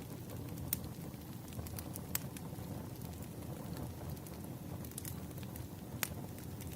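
Wood fire burning: a steady low rumble of flames with irregular sharp pops and crackles of burning logs, a few louder snaps among them.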